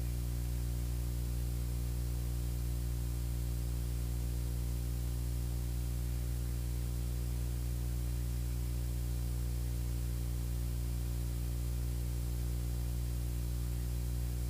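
Beechcraft Bonanza's piston engine and propeller droning steadily in flight, heard in the cockpit through the intercom recording with a constant hiss on top.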